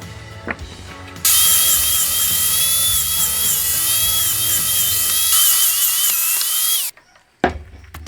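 Power grinder running against the steel blade of a leaf-spring knife: a loud, gritty hiss with a wavering whine, starting about a second in and cutting off abruptly after about five and a half seconds. Background music plays underneath, and two sharp clicks follow near the end.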